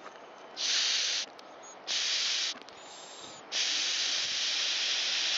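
Air hissing through a Stihl BG86 blower's fuel tank vent as it is blown and sucked through by mouth: three rushes of air, the last and longest about two seconds, with a faint thin whistle between them. Air moves freely, a sign that the vent's foam and little port are working.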